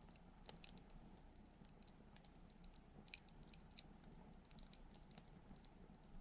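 Faint wood campfire crackling: irregular small snaps and pops, the sharpest two a little after three seconds and near four seconds.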